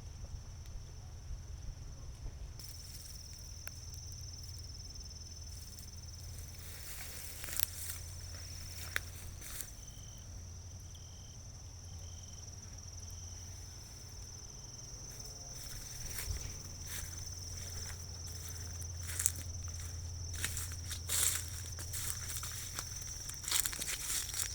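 Outdoor ambience: a steady high-pitched drone over a low hum, with scattered clicks and crackles that come more often in the second half.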